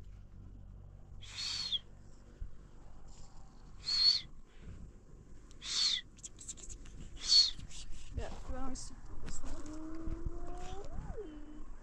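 A bird gives a short, high call four times, one about every one and a half to two seconds, while blankets rustle as they are spread. In the last few seconds a person's voice makes a long, drawn-out sound that rises in pitch near the end.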